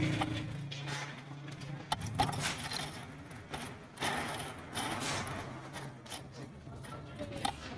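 Scattered light clicks and clinks of tools and metal parts being handled during motorbike engine work, over a faint steady low hum.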